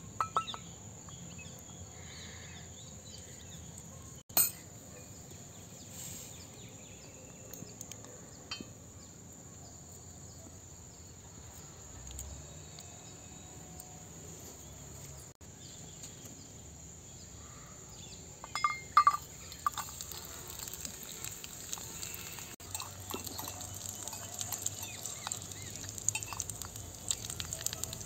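Metal clinks of a small stainless-steel pot being set on a miniature clay wood-fired stove, then a few louder clinks about two-thirds of the way in, after which cashews and raisins fry in hot ghee with a light, continuous crackling sizzle.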